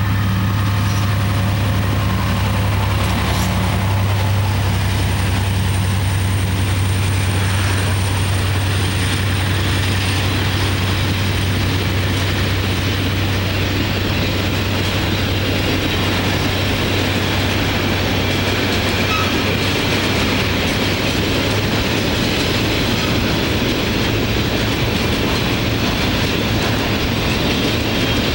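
EMD GT22CU diesel-electric locomotive running with a steady low engine hum that fades about halfway through, while a train of loaded grain hopper cars rolls by with continuous rhythmic wheel clatter on the rail joints.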